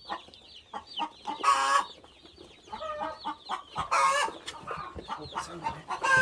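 Day-old Cornish cross chicks peeping: many rapid short falling chirps, while adult chickens give several louder calls a few times over them.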